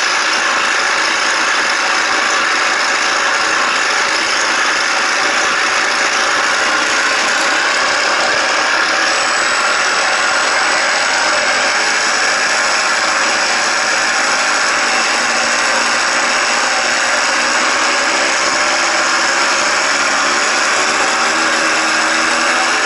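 Engine-sound card in a Parkzone F4F Wildcat RC model playing a simulated aircraft engine running steadily at an even level. It comes through a small speaker, thin with no deep bass.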